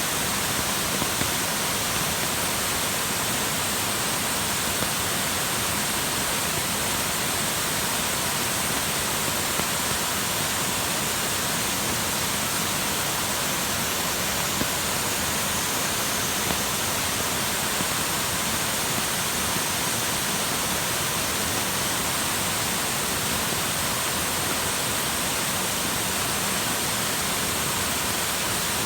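Valley waterfall pouring steadily, its flow swollen with rainwater.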